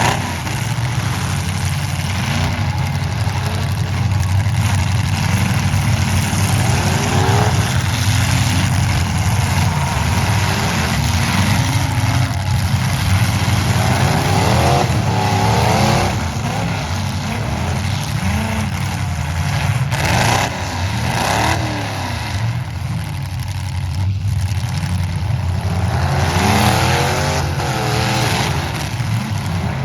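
Demolition derby trucks' engines running at a steady low rumble, with several engines revving up and down again and again.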